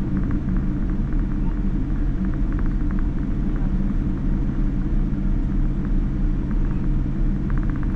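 Steady low rumble inside a Boeing 787-9 airliner's cabin as it flies, the noise of its engines and airflow, with a few faint small ticks over it.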